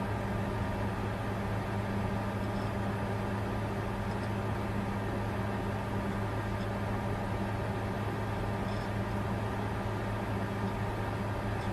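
Bitcoin mining computer running: a steady low hum with an even hiss of air over it, unchanging.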